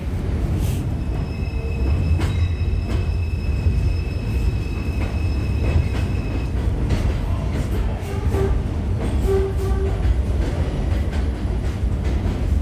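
Bombardier R142 subway train running through the station without stopping: a steady rumble with many rail clicks, and a high, steady wheel squeal for about five seconds from a second in.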